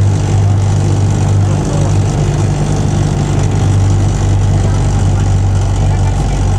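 Running noise inside a moving narrow-gauge railcar: a steady low hum over a rumble of wheels on the track.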